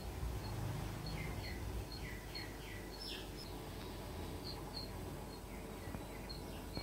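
Birds chirping: short high chirps repeating about twice a second, with runs of quick falling chirps, over a low steady hum.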